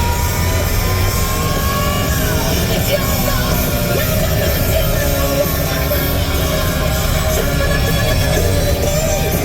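Hard rock song with a singing voice, playing over a steady low rumble of strong wind on the microphone.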